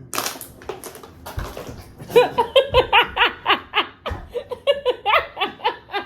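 A person laughing hard: a few breathy gasps at first, then from about two seconds in a long run of rapid 'ha' pulses.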